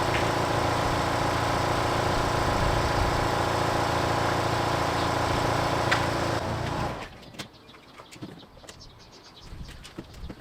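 Starter motor cranking the MINI R56's 1.6 HDi DV6 diesel engine steadily for about seven seconds without it firing, then stopping. The engine won't start. Faint birds can be heard once the cranking stops.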